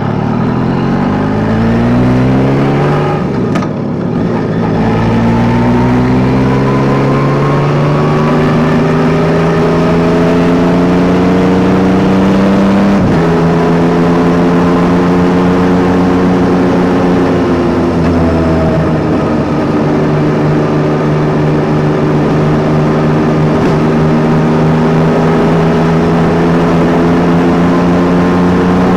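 Yamaha Tracer 9 GT's three-cylinder engine pulling up through the gears: its note rises, drops at a shift about three and a half seconds in, climbs again until another shift near the middle, then holds a steady note at cruising speed with a brief dip a little later.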